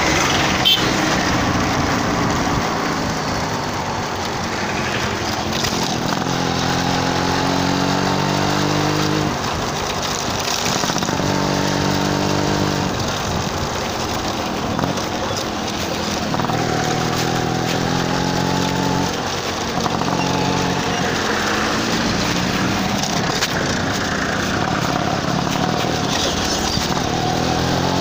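Yamaha RX135's two-stroke single-cylinder engine under way. Its pitch climbs and drops several times as the bike accelerates through the gears.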